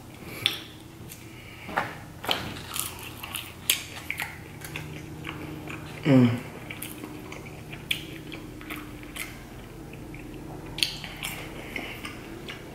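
Mouth sounds of chewing and biting crispy chicken nuggets, with many short wet clicks and crackles, and one loud short sound that drops in pitch about six seconds in.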